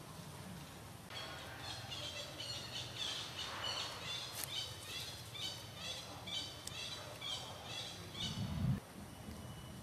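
A bird calling over and over in short high chirps, about two a second, against a faint outdoor background. A brief low rumble comes near the end and cuts off suddenly.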